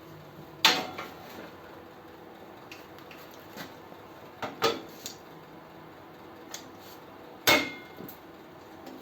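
Metal parts being handled in a workshop: three sharp metallic clanks with brief ringing, about a second in, near the middle and near the end, with a few lighter knocks between.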